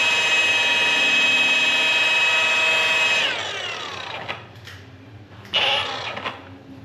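Electric rotary polisher buffing fresh paint, running at a steady high speed, then switched off about three seconds in and whining down in pitch as it spins to a stop. A short noisy scuff follows near the end.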